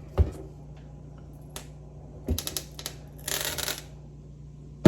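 Small steel ball bearings dropping and clattering out of a 1978 Ford recirculating-ball steering box: a sharp click near the start, a quick run of clicks a little past two seconds in, then a short rattle.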